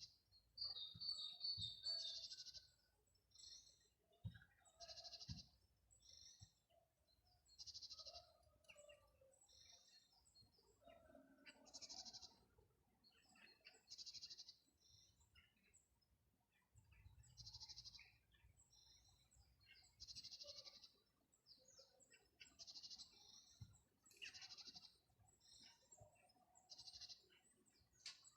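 Birds singing in woodland: a short, high call repeated every two to three seconds, with smaller chirps and a brief trill in between.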